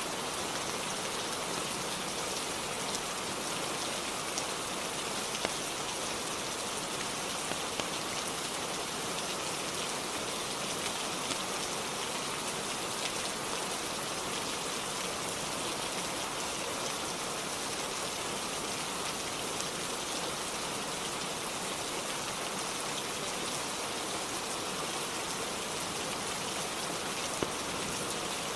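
Steady rainfall, a dense even hiss, with a few scattered sharp ticks.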